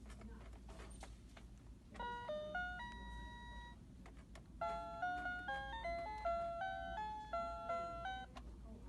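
Toy piano sounding a quick series of bright, bell-like notes in two runs, a short one about two seconds in and a longer one from about the middle to near the end.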